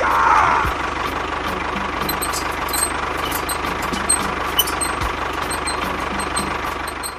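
An engine running steadily at idle, with a fine low pulse and scattered light clicks and knocks. It cuts off at the end.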